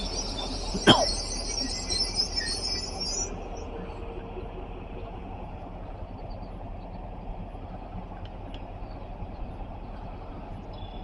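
Amtrak train at the platform: a loud hiss of air that cuts off about three seconds in, with one sharp clank near a second in. A steady low rumble continues underneath, with a few faint ticks near the end.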